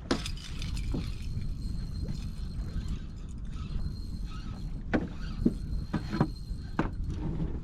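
Low rumble of wind buffeting the microphone, with a few scattered knocks and clicks of gear being handled aboard a small fishing boat, several of them close together near the end.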